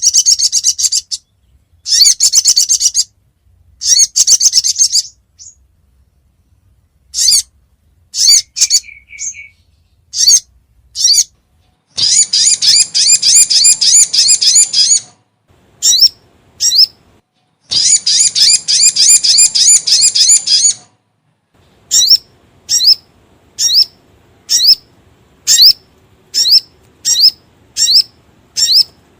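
Recorded call of a sogon (sogok ontong, a spiderhunter), used as a lure call: bursts of rapid, high, sharp repeated notes. About 12 s and 18 s in come two runs of fast chatter lasting about 3 s each, and near the end a string of single upward-sweeping chirps, about one a second.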